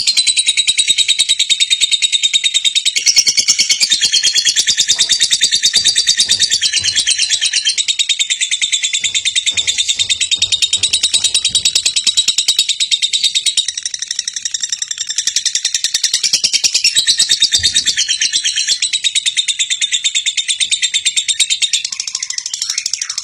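Lovebird singing its ngekek: a long, unbroken, very fast high-pitched chattering trill that runs without a pause.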